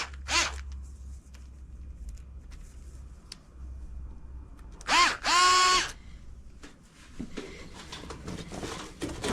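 Cordless drill-driver running in short bursts, its whine rising in pitch as the motor spins up: a brief burst just after the start and a longer double burst about five seconds in, working screws. Quieter scraping and handling noise follows near the end.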